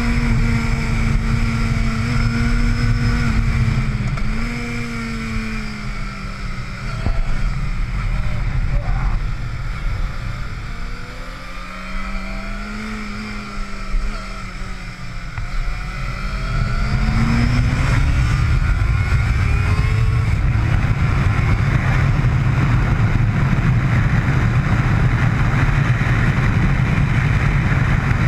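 Motorcycle engine on track, its pitch rising and falling as the rider rolls the throttle on and off through corners, with a brief drop about four seconds in. From a little past halfway it turns into a louder, steady rush of wind noise on the microphone at speed, with the engine partly buried under it.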